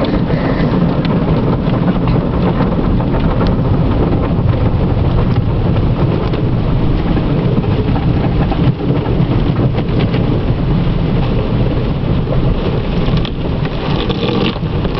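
Automatic car wash working over the car, heard from inside the cabin: a loud, steady rush of water spraying and drumming on the body, with a deep rumble.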